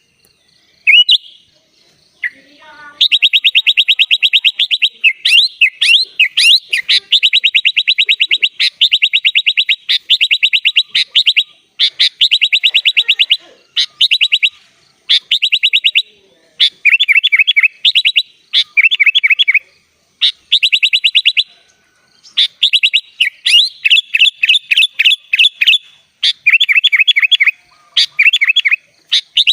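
A sooty-headed bulbul (kutilang) singing persistently: a few short calls, then long runs of fast trilling phrases, each a second or two long, with brief pauses between them.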